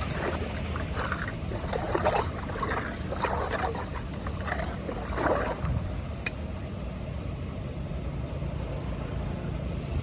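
Steady rush of flowing water with irregular splashing and gurgling for the first five seconds or so, then a calmer, even flow.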